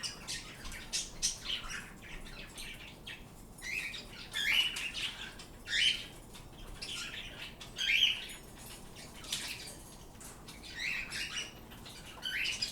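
Pet birds chirping and calling in short, scratchy bursts every second or two.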